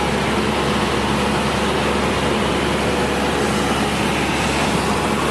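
Cessna 172 SkyHawk II's four-cylinder Lycoming engine and propeller running steadily, a constant drone over a dense rush of air noise.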